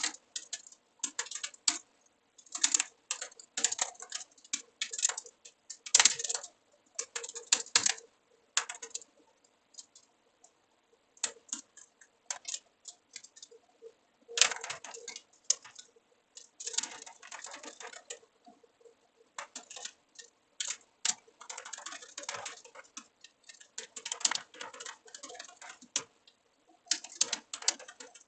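Computer keyboard typing in irregular bursts of rapid keystrokes, with short pauses between runs.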